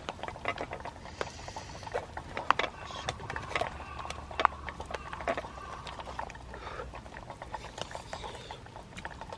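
A person eating close to the microphone: chewing and slurping, with many scattered sharp clicks and taps.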